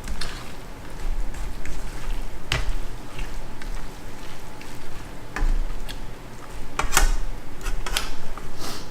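Close-miked chewing and wet mouth sounds of someone eating rice noodle stir fry, with scattered sharp clicks, the loudest about seven seconds in.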